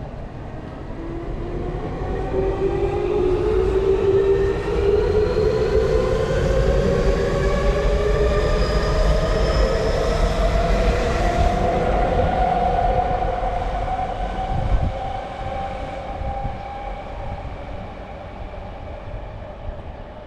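Tokyu electric commuter train pulling away and accelerating, its traction motors giving a whine that rises steadily in pitch. The sound is loudest in the middle and fades as the train moves off.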